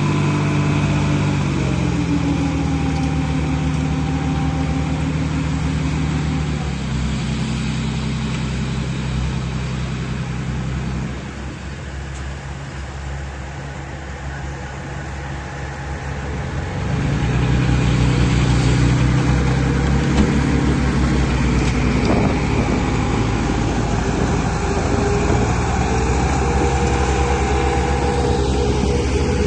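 Diesel-type engines of a bulldozer and dump truck running and working, their pitch shifting several times. The sound drops back a little in the middle and grows louder again about two-thirds through.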